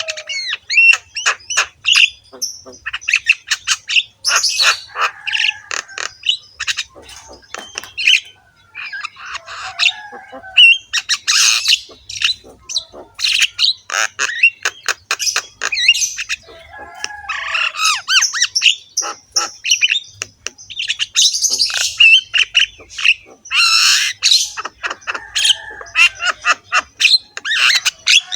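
Javan myna (jalak kebo) singing a continuous, fast stream of harsh squawks, rattling clicks and short whistles, studded with mimicked calls of other birds.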